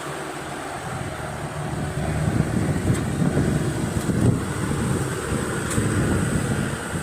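Kubota farm tractor's diesel engine working hard under load, pulling a plough through sticky clay; it grows louder about two seconds in.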